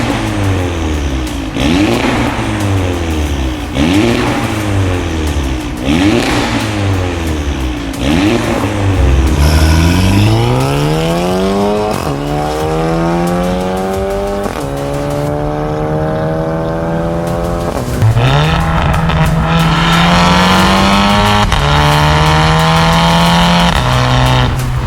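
Audi TT 45 TFSI's 2.0-litre turbocharged four-cylinder through a stainless aftermarket exhaust with a decatted downpipe and catback. It is revved in five quick blips about two seconds apart, then pulls up through the gears in several rising pulls, each cut by an upshift.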